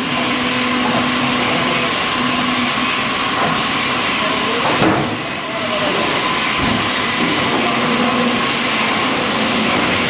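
Sawmill log carriage machinery running: a steady, loud hiss with a faint hum, and a brief knock about five seconds in.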